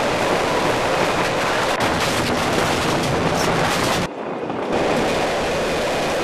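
Narrow-gauge train on the move: a steady rush of wheel-on-rail running noise with knocks and rattles. It drops away briefly about four seconds in, then the same running noise resumes.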